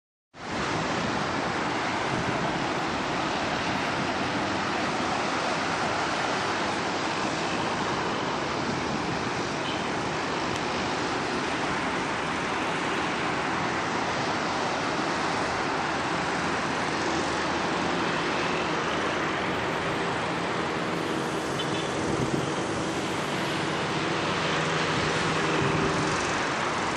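Steady rushing noise, even throughout, with a faint low hum coming through in the second half.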